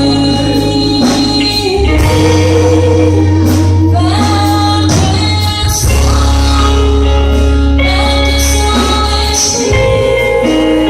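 A choir singing a gospel worship song with band accompaniment: held sung notes over long low bass notes that change every couple of seconds, with sharp accented strokes.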